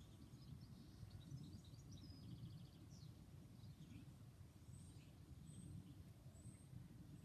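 Faint birdsong over a steady low outdoor rumble: small birds twittering and trilling, then three short high chirps about a second apart.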